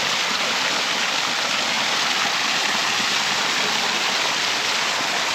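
Small waterfall splashing into a creek with a steady rushing hiss.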